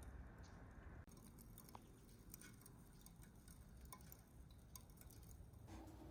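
Near silence, with faint, irregular small ticks and clicks scattered through it.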